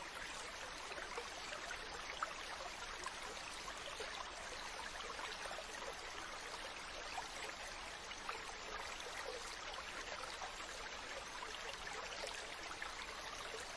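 Water rushing steadily, with a fine crackle of small splashes and droplets.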